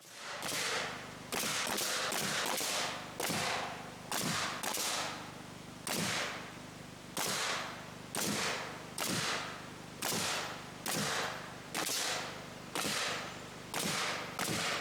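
Hammer driving nails into 2x4 roof trusses during assembly: a steady run of sharp blows, roughly one to two a second, each with a short ring after it.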